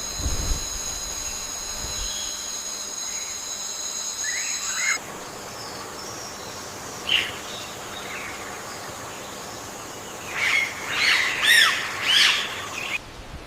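Rainforest ambience with a steady high whine for the first five seconds, then bird calls: one short call about seven seconds in, and a burst of chirps and whistled calls near the end.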